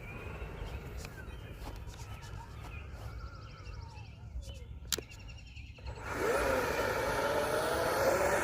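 Faint outdoor background with a few bird chirps and a single click, then, about six seconds in, a sudden louder rush with a whine rising in pitch as the electric ducted fans and motor of an RC jet truck power up.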